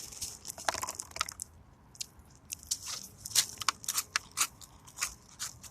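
Someone chewing a mouthful of crunchy Cocoa Puffs cereal close to the microphone, a run of irregular crisp crunches a few times a second.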